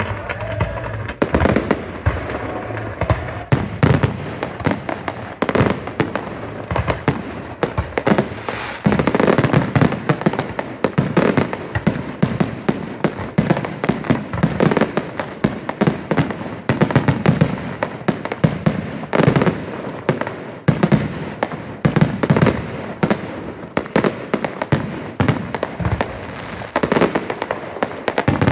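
Fireworks going off in a rapid, continuous barrage: many sharp bangs and crackles a second, overlapping with no pause.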